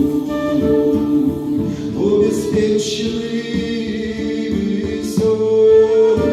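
Music with singing: a voice holds long, steady notes over instrumental accompaniment.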